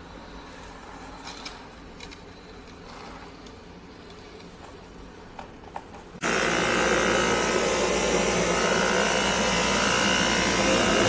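Quiet handling with a few light clicks, then about six seconds in a vacuum cleaner switches on abruptly and runs steadily with a high whine.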